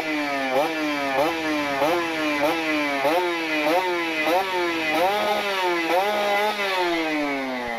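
Kawasaki Ninja RR two-stroke single blipped through an R9 aftermarket exhaust, about two quick revs a second, each rising sharply then dropping off. It holds high twice, then falls slowly back down near the end. The carburettor is set fairly rich ('basah'), and the rider calls it very rich at the bottom end.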